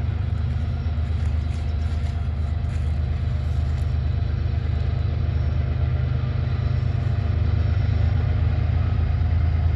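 Diesel locomotives of an approaching freight train working hard, pulling up a grade: a steady low engine rumble that grows slowly louder.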